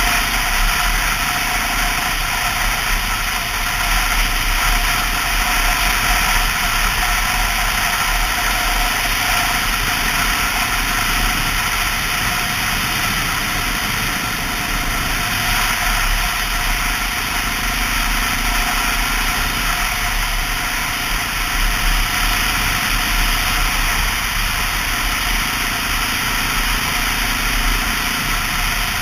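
Honda XR650L's single-cylinder four-stroke engine running steadily under way, its drone holding an even pitch and level.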